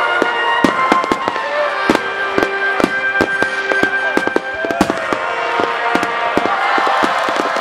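Aerial fireworks bursting in quick succession, sharp bangs and crackling, over music playing.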